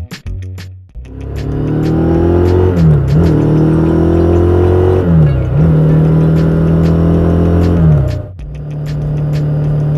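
Ducati Scrambler's L-twin engine accelerating hard, its pitch climbing with two quick upshifts along the way. Near the end the throttle comes off and it settles to a steady drone.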